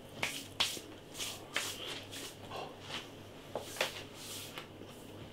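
Person chewing food, with scattered quiet mouth clicks and breaths at irregular moments.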